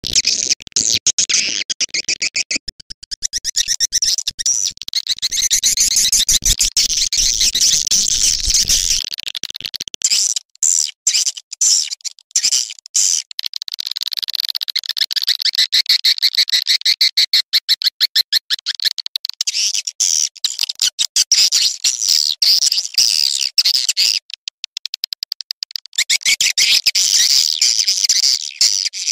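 Swiftlet lure-call recording: a dense, fast, high-pitched twittering chatter of swiftlets, made of rapid chirps that repeat over and over. It briefly breaks up twice along the way. Recordings like this are played to draw swiftlets into a nesting house.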